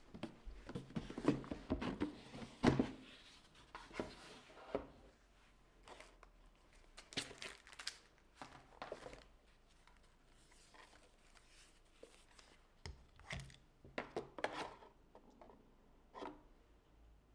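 Paper being handled up close: rustling, crinkling and creasing, with irregular light taps and short cutting sounds, busiest in the first few seconds and sparser after.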